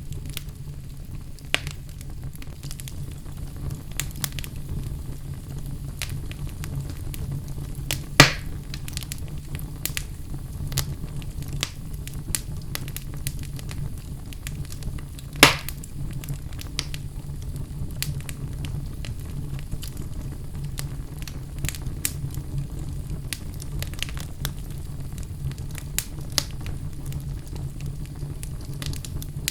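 Wood fire burning in a fireplace: a steady low rumble of flames with scattered small crackles, and two louder pops about 8 and 15 seconds in.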